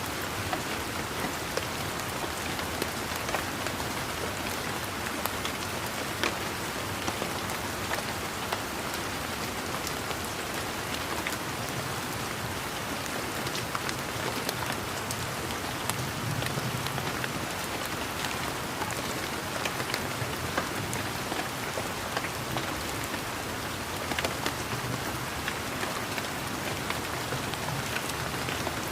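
Steady rain falling, with many individual drops tapping sharply close by over the even hiss of the shower.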